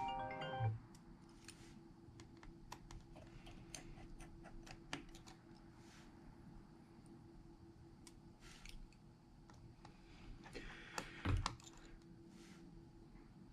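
Irregular small clicks and taps of small repair tools against phone parts, with a heavier knock about eleven seconds in.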